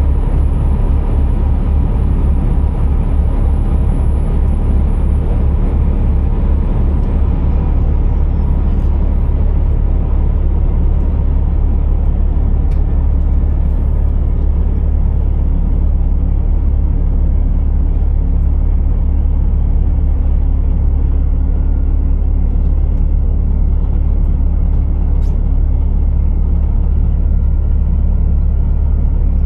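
Steady low rumble of a Scania R480 heavy truck's straight-six diesel engine running. A faint high whistle slides down in pitch about eight seconds in.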